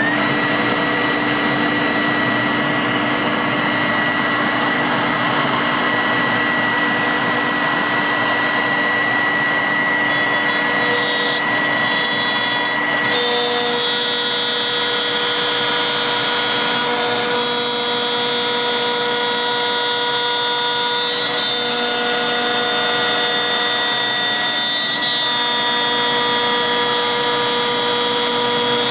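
CNC router spindle running steadily while machining 21 mm multiplex plywood: a continuous whine over a noisy rush. The whine's tones shift a few times along the way.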